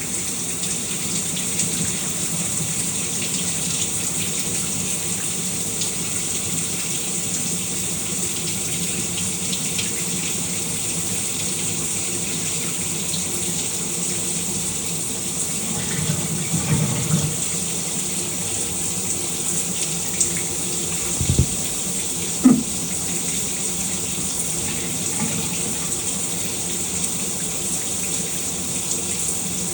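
A shower running: a steady hiss of falling water. A few brief knocks and bumps break in around the middle, the sharpest about two-thirds of the way through.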